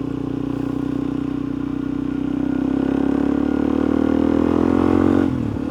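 Suzuki DR-Z400E single-cylinder four-stroke dirt bike engine pulling under acceleration, its pitch rising steadily for about five seconds, then falling abruptly near the end as the bike shifts up a gear and settles at a lower steady pitch.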